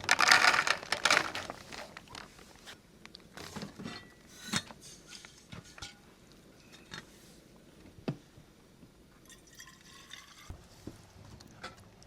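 Water pouring for about a second and a half, then scattered light clicks and knocks.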